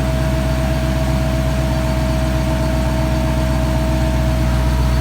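Dodge Challenger SRT Hellcat Redeye's supercharged 6.2-litre Hemi V8 idling steadily, its exhaust opened up by a mid muffler delete.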